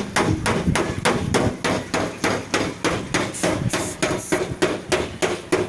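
Rapid, even hammer blows on a car's sheet-metal body panel, about five a second, during dent repair.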